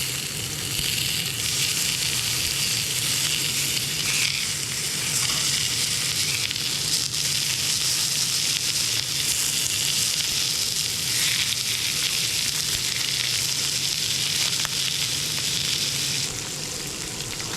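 Food frying in a pan: a steady sizzle with scattered small crackles.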